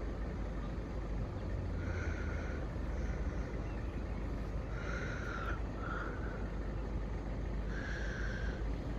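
Outdoor background of steady low rumble from wind and distant road traffic, with short bird calls coming irregularly every second or two.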